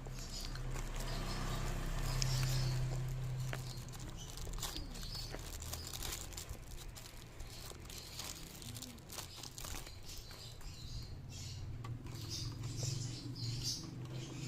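Small scattered clicks and crackles of a child eating a snack, over a steady low hum.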